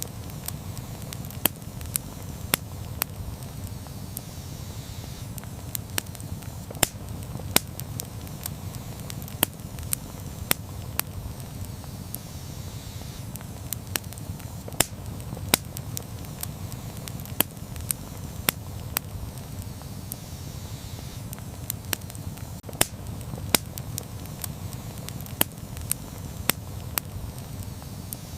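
Campfire burning: a steady low rush of flame with sharp, irregular pops and crackles from the burning wood, about one or two a second.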